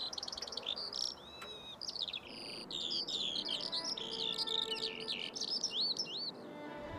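Skylark singing: a fast, unbroken stream of chirps, trills and whistled slurs.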